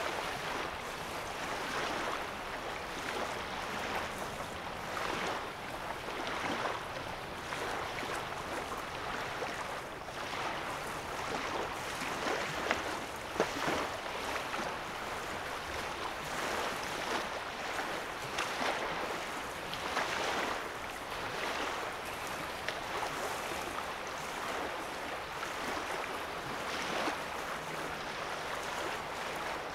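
Small waves lapping at the shore of a calm lake, soft washes of water coming every second or two.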